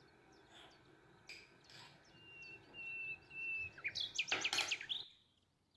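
A small bird chirping and whistling: a few short, high whistled notes about two seconds in, then a quick run of rapid chirps about four seconds in, before the sound cuts off suddenly.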